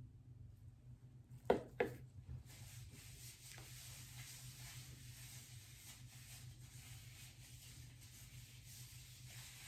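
Two sharp knocks about a second and a half in, then faint steady rubbing and rustling of hair being worked through with dye, over a low steady hum.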